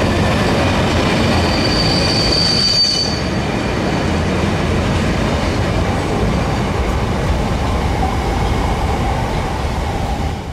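Freight train of heavy open box wagons rolling past at close range, a continuous rumble of wheels on rail with a high-pitched wheel squeal, loudest about two to three seconds in.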